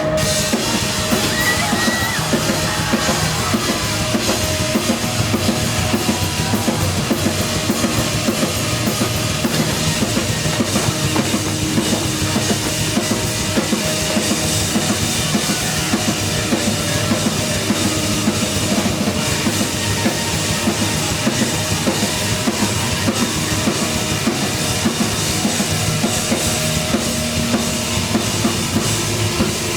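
Live heavy rock band playing loudly, the drum kit driving a fast, steady beat under bass and sustained instruments.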